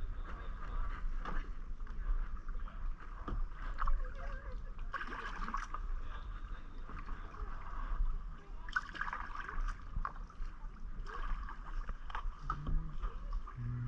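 Kayak paddling: the paddle blades swish and splash into the water in a wash every few seconds, over a steady low rumble.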